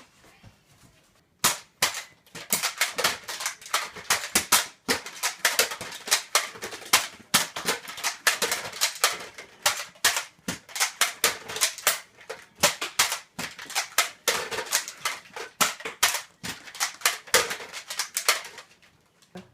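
Nerf blasters firing in a rapid, overlapping exchange of sharp shots, several a second, starting about a second and a half in and stopping just before the end.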